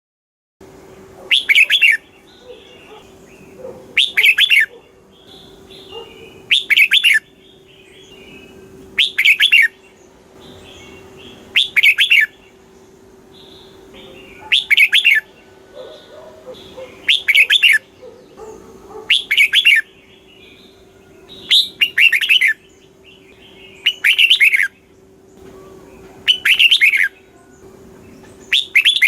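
Red-whiskered bulbul singing: a short, loud, bubbling phrase repeated about every two and a half seconds, with softer notes between the phrases. A faint steady hum runs underneath.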